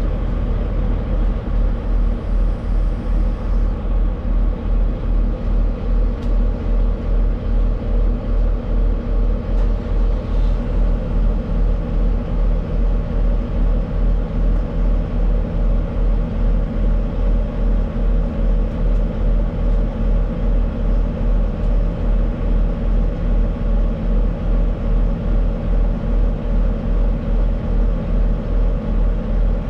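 Tractor-trailer truck under way, heard from inside the cab: a steady low drone of engine and road noise with an even pulsing beat, about two to three beats a second.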